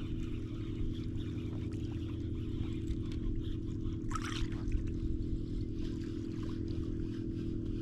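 Boat motor running steadily with an even low hum. A brief sharp noise, like a splash or rustle, cuts in about four seconds in.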